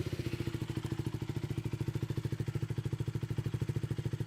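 KTM Duke 200's single-cylinder four-stroke engine idling through an Akrapovič titanium slip-on exhaust run open, with the silencer insert removed. A steady, evenly pulsing bassy exhaust note that is not very loud.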